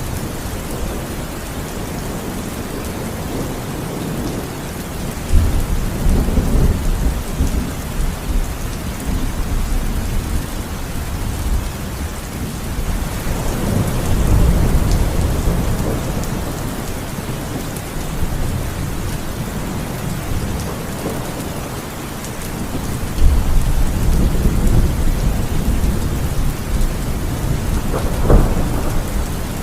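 Heavy rain falling steadily, with low rolls of thunder swelling up about five seconds in, again around thirteen seconds and again after twenty-three seconds, and a sharper crack near the end.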